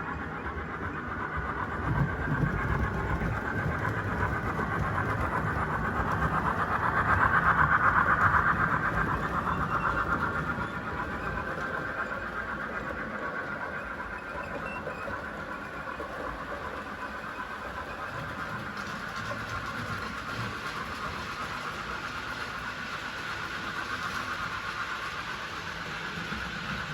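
Model train running on a layout's track: a steady motor whine over a low running rumble, loudest for a few seconds about seven seconds in as it passes close, then running on steadily.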